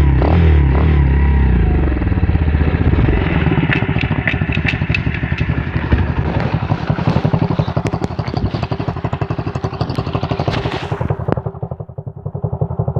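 The four-stroke single-cylinder engine of an M2R KX110F pit bike running, with a steady run of firing pulses. It is louder and deeper in the first couple of seconds, then settles to a lighter run, with some sharp mechanical ticks and clatter about four to five seconds in.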